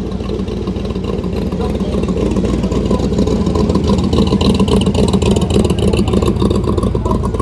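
Loud engine and exhaust of a low custom car driving slowly past, with a rapid pulsing beat that builds to its loudest a little past halfway, then eases.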